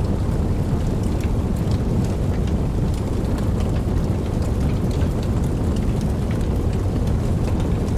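Steady rainfall with many scattered drop ticks over a deep, continuous low rumble, with no distinct thunder clap.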